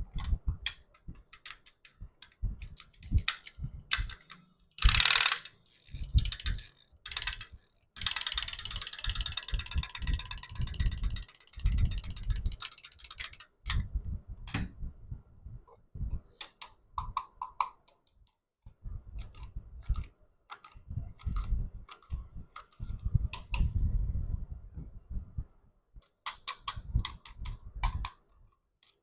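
Plastic toys being handled: irregular sharp clicks and rattles with soft low knocks, and a few seconds of continuous rustling early on.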